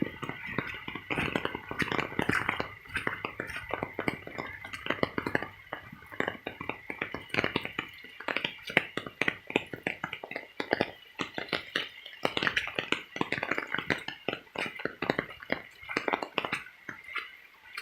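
Raindrops tapping close to the microphone: a dense, irregular patter of small clicks and taps.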